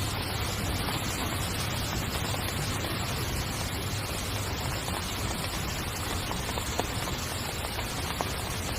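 Heavy rain falling steadily on a tent: an even hiss, with a few sharper drop ticks now and then.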